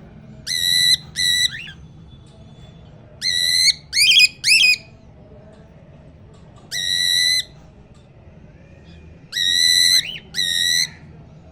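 Cockatiel calling: eight short, clear whistled calls in groups of two or three, plus one longer call in the middle. Several of the calls end in quick rising chirps.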